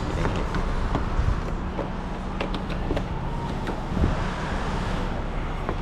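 Steady shop hum with a few light clicks and knocks, about four, from parts and plastic clips being handled and fitted.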